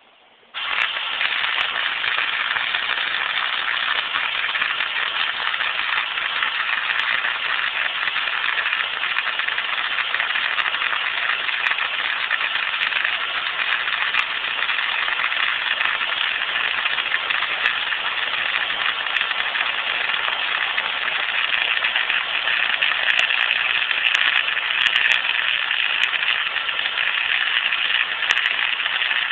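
Electric arc welder burning a long steady bead on sheet steel: a continuous crackling sizzle from the arc that starts about half a second in and holds without a break.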